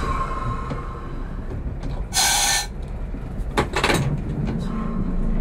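Diesel engine of a heritage diesel railcar idling steadily, heard from inside the driving cab. About two seconds in there is a short, loud hiss, with a few sharp clicks a second or so later.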